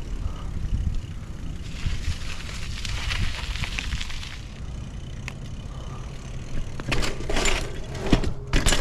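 Bicycles being ridden on a trail: a steady low rumble, a stretch of hiss about two seconds in, and a few sharp clicks and rattles near the end.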